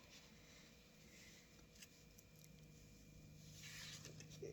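Near silence: room tone, with a faint brief rustle near the end.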